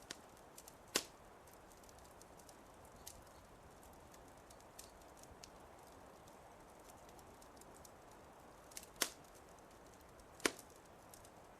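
Fireplace fire crackling: a steady low hiss with scattered faint ticks and three sharp pops, about a second in, near nine seconds in and a second and a half after that.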